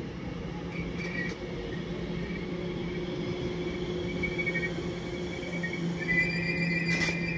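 Elizabeth line Class 345 electric train running into the platform and slowing to a stop. Its traction equipment gives a steady hum, and a high brake squeal rises near the end.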